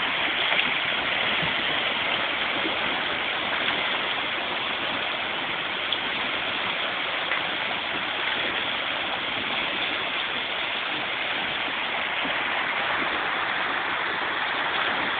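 Rushing river water running fast through a rapid, a steady, even rush.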